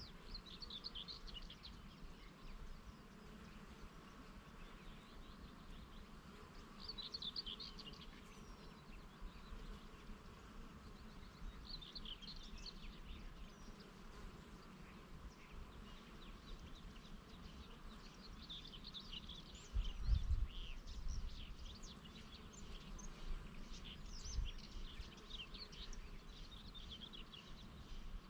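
Bees buzzing over a flower field, with songbirds twittering in short phrases again and again and more busily in the last third. About two-thirds of the way through, a brief low rumble of wind hits the microphone.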